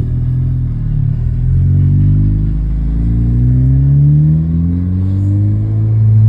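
Ford Fiesta ST accelerating through a 2J Racing side-exit stainless cat-back exhaust, the engine note climbing steadily for several seconds. Near the end it drops to a lower, steady drone.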